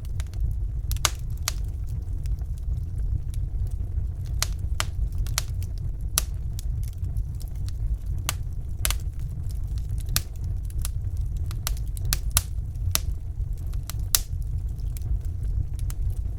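Fire burning in a fireplace: irregular sharp crackles and pops, a dozen or more scattered through, over a steady low rumble.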